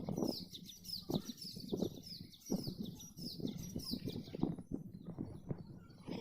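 Birds chirping: a quick run of short, falling chirps, about three a second, that fades out after about four seconds, over low rustling thumps.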